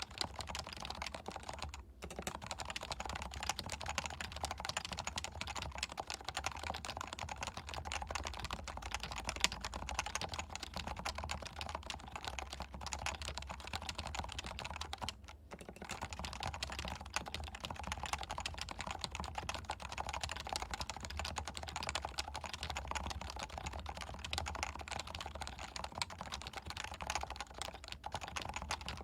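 Continuous fast typing on a Leopold FC660C keyboard with stock, non-silenced 45 g Topre electrostatic capacitive switches, keys clicking in quick succession. The typing breaks off briefly about two seconds in and again about halfway through.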